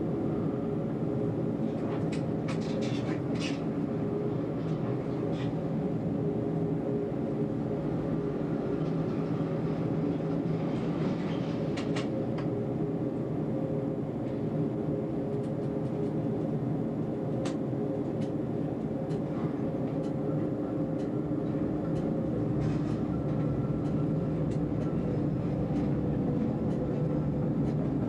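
Electric tram running along its line, heard from the driver's cab: a steady rumble and motor hum, with scattered sharp clicks and knocks from the wheels on the track.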